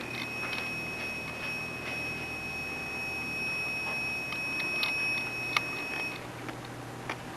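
A steady high-pitched tone with fainter higher overtones holds for about six seconds and then stops suddenly. Light clicks are scattered through it, with one sharp tick about five and a half seconds in.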